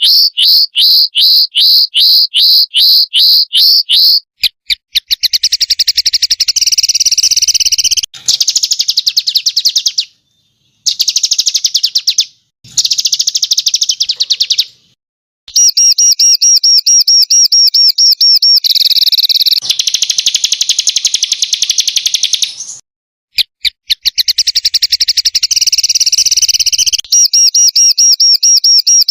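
Recorded songbird calls from small birds: loud, high-pitched rapid-fire notes and dense harsh trills, the 'tembakan kasar' of a masteran track. At first a quick series of sharp chirps about four a second, then long buzzy trills in spells that cut off abruptly with brief silences between them.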